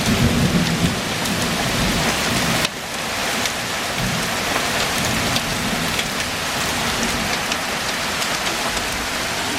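Heavy rain pouring down steadily, with a low rumble of thunder under it that cuts off abruptly almost three seconds in; after that the downpour goes on alone, with scattered sharp drop hits.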